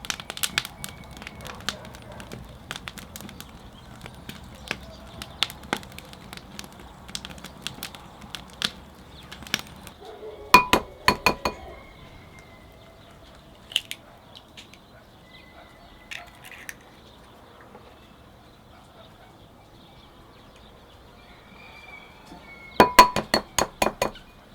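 Scattered clicks and clinks of a utensil against a glass bowl, with two quick runs of ringing clinks, one about halfway through and one near the end.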